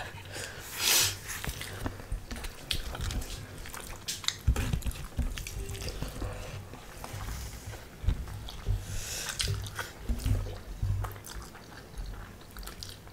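Close chewing and biting of people eating rice and spicy pork with their hands, with many small irregular mouth clicks and low thuds.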